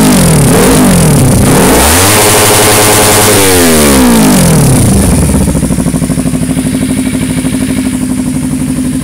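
Kawasaki Ninja 300 parallel-twin engine revving through an unbaffled WR Extreme aftermarket exhaust, heard close to the outlet. First come a few quick throttle blips, then one longer rev held high for about a second and a half, then it drops back to an even idle about five seconds in.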